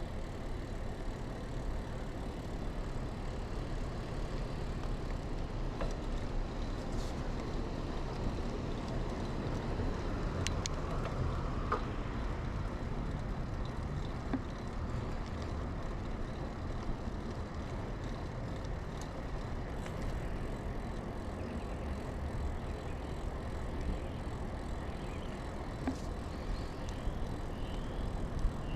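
2000 Kona Blast mountain bike rolling along, heard from a chest-mounted camera: steady tyre and wind rumble with a few small clicks and rattles from the bike.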